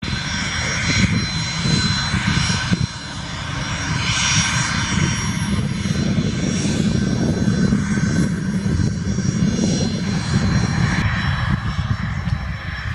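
Cessna Citation business jet's twin turbofan engines running: a steady high whine over a heavy low rumble, the rumble dipping briefly about three seconds in.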